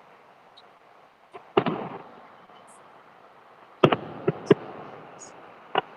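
Fireworks going off in sharp bangs. One comes about a second and a half in with a short crackling tail, three come close together about four seconds in, and a last one comes near the end.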